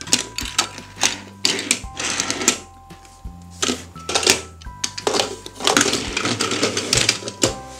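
Small plastic toy vehicles clacking, knocking and rattling as they are handled and rolled against a plastic playset: a quick series of sharp clicks with short rattling stretches, over light background music.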